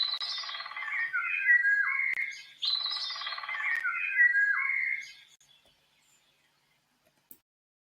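A songbird singing two quick phrases of whistled, warbled notes that jump up and down in pitch, then falling silent about halfway through.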